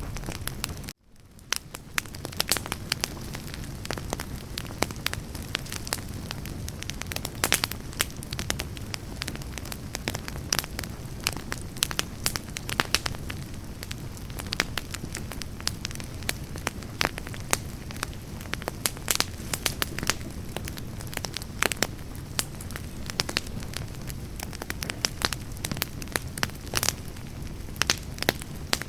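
Wood campfire burning: constant crackling and sharp pops of burning logs over a low steady rush of flame. The sound cuts out briefly about a second in, then fades back up.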